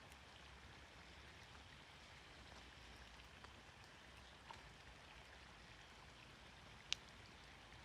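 Near silence: a faint steady hiss with scattered light ticks, and one sharp click near the end.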